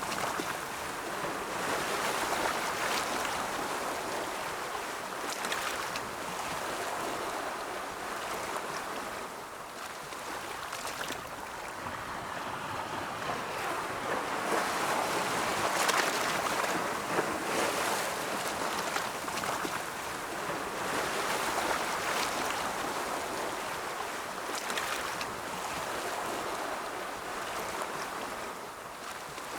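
Ocean waves rolling in and washing on the shore, a continuous surf hiss that swells and fades every few seconds.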